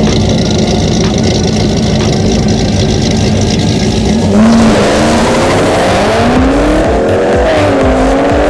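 A car accelerating hard. After a steady drone, from about four seconds in, the engine revs climb and drop repeatedly, as if shifting up through the gears.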